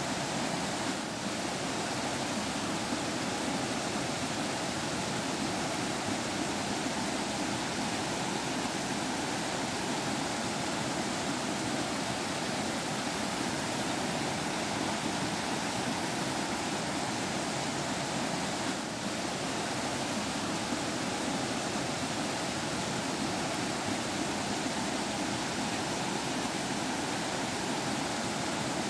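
Water of a forest stream flowing and trickling over stones, a steady rush with no break.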